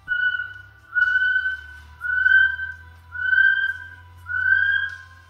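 Kiwi calling: a series of shrill whistles, about one a second, each rising slightly in pitch.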